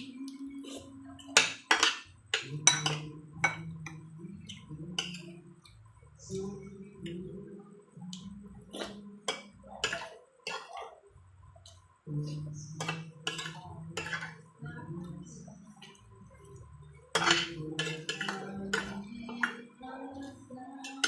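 Eating at a table: a spoon clinking and scraping against a bowl and plate in irregular sharp clicks, with chewing and slurping, over low held background tones.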